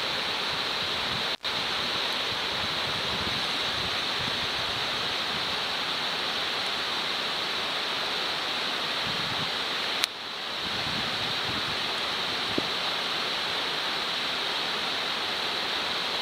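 Steady hissing noise. It drops out briefly about a second and a half in, and again with a click about ten seconds in.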